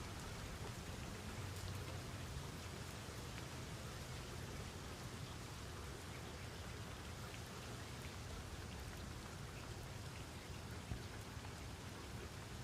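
Steady rain falling, a fine even hiss with scattered drops ticking.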